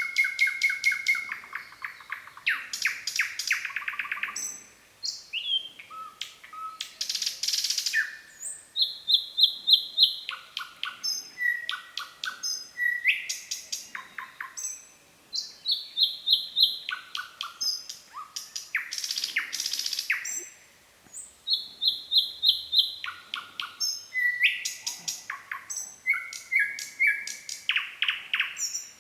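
Nightingale singing: phrase after phrase of rapidly repeated notes, fast clicking trills and whistles, each phrase different from the last, with short pauses between them.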